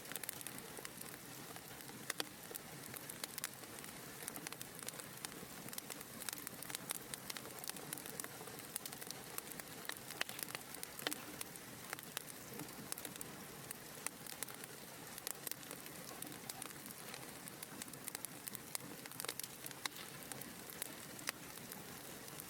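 Wood fire burning in a fireplace, crackling steadily: frequent, irregular sharp pops and snaps over a soft hiss.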